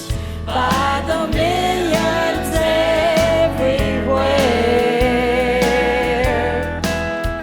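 Gospel music in a country style: a held, wavering lead melody over a steady pulsing bass beat, with no words heard.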